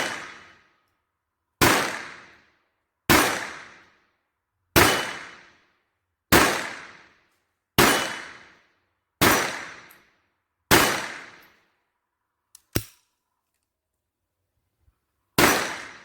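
Taurus PT-22 .22LR pistol firing Federal American Eagle Suppressor rounds: eight shots about a second and a half apart, each with a short ringing echo. There is a longer pause after the seventh shot, with a brief sharp click in it, before the last shot.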